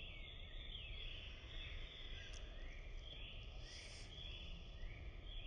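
Faint outdoor ambience: a low, steady rumble with a light hiss above it.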